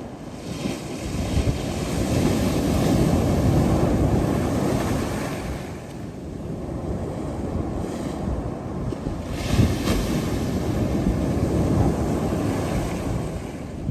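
Sea surf washing in and drawing back in two long swells, with wind buffeting the microphone.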